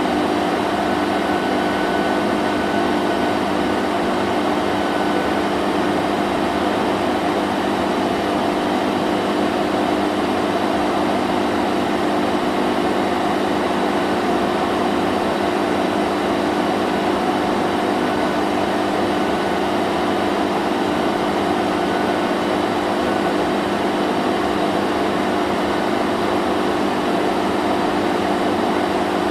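Vacuum cleaner running steadily: an even motor hum and rushing air, without change.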